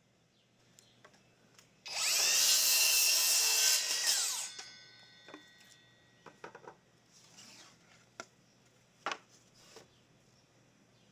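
A power tool run into wood once for about two and a half seconds, its motor pitch bending up as it starts and down as it stops, followed by a few light knocks and taps.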